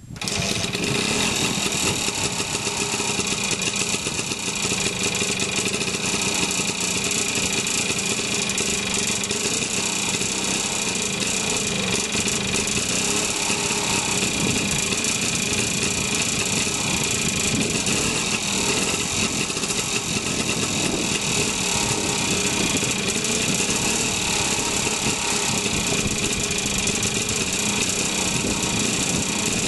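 BSA Bantam D7 Super's single-cylinder two-stroke engine catching after a kick-start and then running at a steady idle.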